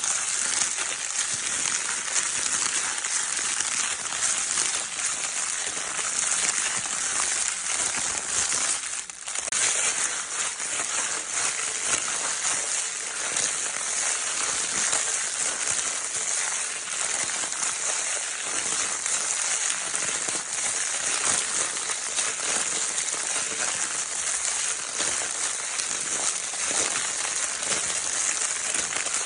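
Baby crinkle paper toy being crinkled continuously: a dense, steady, bright crackling, with a brief let-up about nine seconds in.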